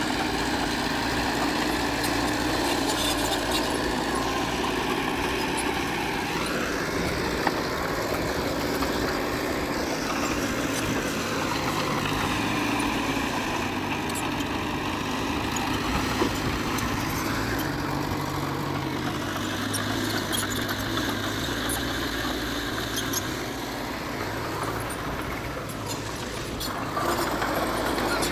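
Diesel engine of heavy earthmoving machinery running steadily. Its note rises and falls several times as the load and throttle change.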